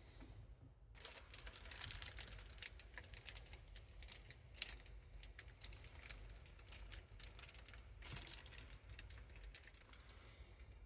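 Dense, irregular small plastic clicks and crinkling, as nanoblock pieces and their bags are handled and snapped together.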